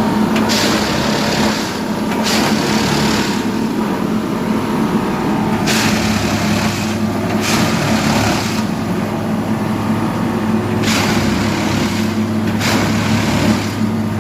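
Train running: a steady low hum, with pairs of rushing swells about a second long that repeat every five seconds or so.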